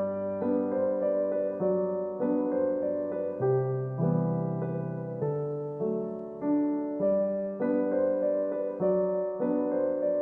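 Background piano music: a gentle, slow melody with notes struck about twice a second, each fading after it is played.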